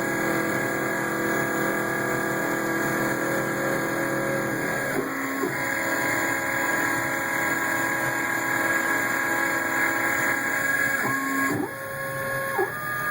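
CNC mini-mill machining under flood coolant: the spindle and stepper-driven axis motors whine steadily over a hiss. The tones change pitch about five seconds in, and near the end they slide up and down as the axes change speed.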